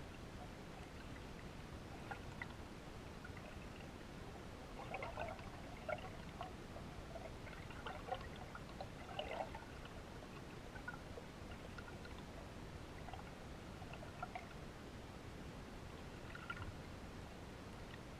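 Faint splashing and trickling of water over a steady low rumble, with a cluster of small splashes in the middle and a few more near the end.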